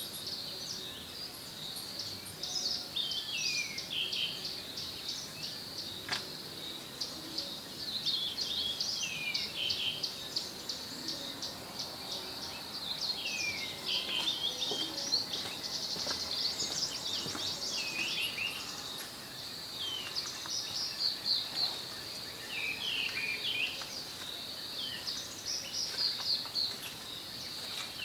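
Birds singing, with short phrases of quick chirps sliding downward every few seconds, over a steady high drone of insects.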